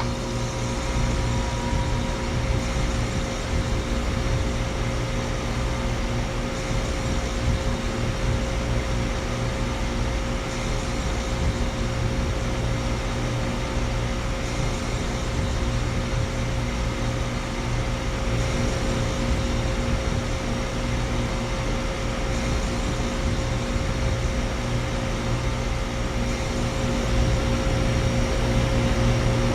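Central air conditioner condensing units running: a steady compressor hum with several held tones under the rushing noise of the condenser fans, a little louder near the end.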